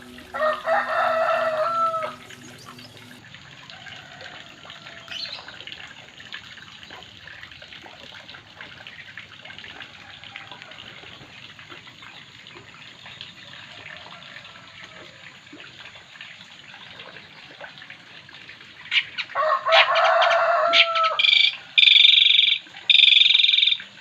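A rooster crowing twice, once near the start and again about 19 seconds in, each crow lasting about a second and a half, over faint steady background noise. Loud, high-pitched, broken calling follows in the last few seconds.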